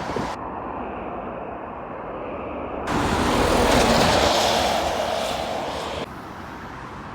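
Road traffic noise with a vehicle going past, loudest about four seconds in. The sound changes abruptly three times.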